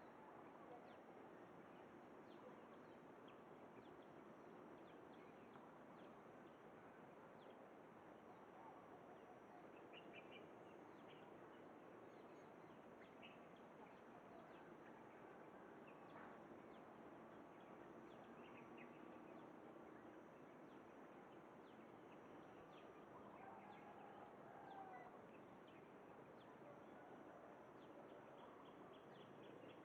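Faint outdoor ambience with scattered soft bird chirps and calls.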